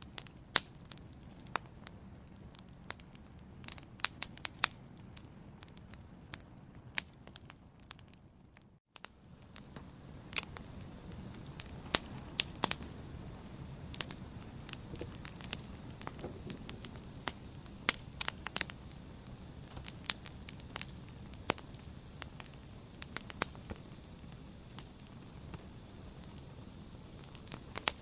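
Wood fire in a fireplace crackling, with frequent sharp pops and snaps over a soft, steady hiss. The sound cuts out for an instant about a third of the way through; after that the low rumble of the flames is louder.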